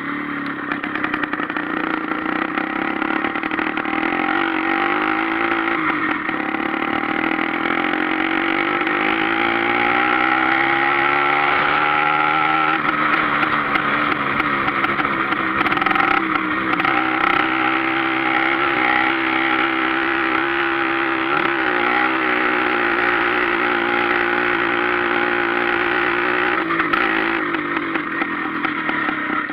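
Sachs-engined Hercules with a straight exhaust pipe, running under way. The engine note rises steadily for several seconds, then holds fairly even, with a couple of short drops in revs near the end.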